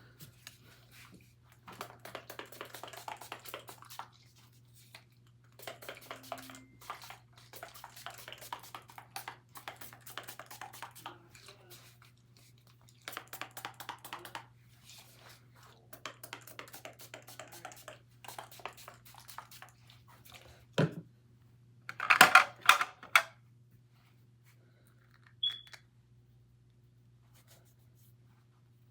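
Repeated short bursts of scratchy rubbing or brushing noise, each a second or two long, over a steady low hum. A few sharp, louder knocks come about two-thirds of the way through.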